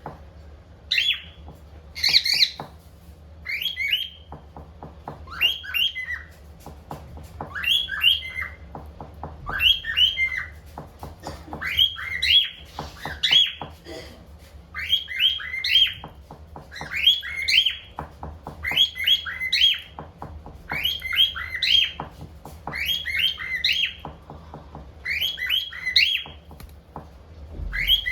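Cockatiel whistling the same short chirpy phrase over and over, about once every one and a half to two seconds.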